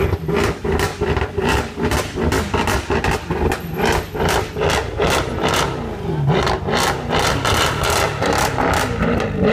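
Untuned, standard-spec Mercedes-Benz C63 AMG's V8 being revved again and again through its quad exhaust, about three sharp pulses a second over a steady engine note.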